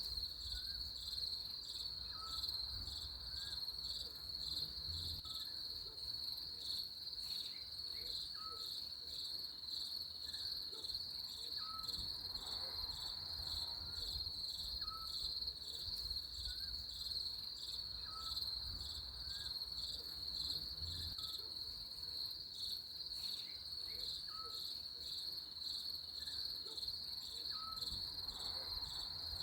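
Nature ambience dominated by a steady, high-pitched cricket chorus. A softer, lower chirp repeats about every second or so over it.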